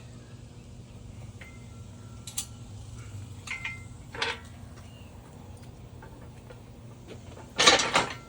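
Light metallic clinks and taps of metal parts and tools being handled, two of them leaving a short ringing tone, then a louder rattling clatter of metal near the end, over a low steady hum.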